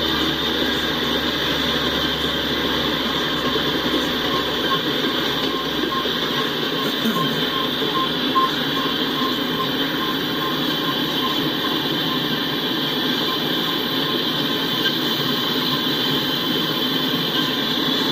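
Freight train of loaded tank cars rolling past: steady clatter and rumble of steel wheels on rail. A faint, evenly repeating ring is heard partway through.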